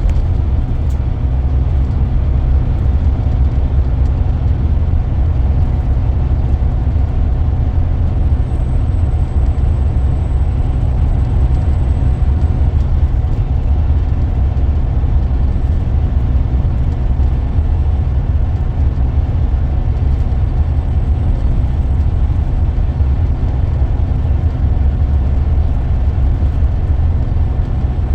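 Scania K440EB coach's 13-litre DC13 diesel engine and road noise heard from inside the cabin, a steady low drone as the coach runs along without a gear change.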